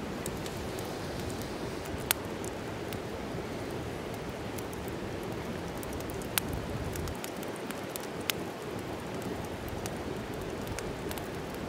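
Wood fire in a fireplace crackling: a steady rustling hiss with scattered sharp pops, the loudest about two seconds in and two more around six and eight seconds in.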